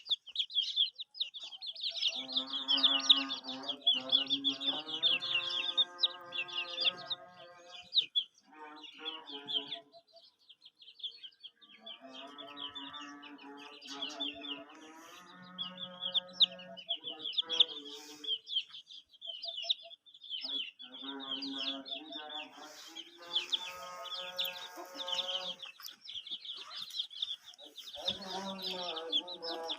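A crowd of chicken chicks peeping continuously in high, rapid cheeps. Background music plays in four long phrases over the peeping.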